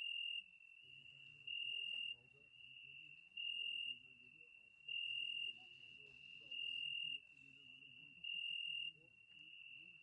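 Cricket chirping: a steady high trill that swells louder for about half a second every second and a half or so. Faint, indistinct voices murmur underneath.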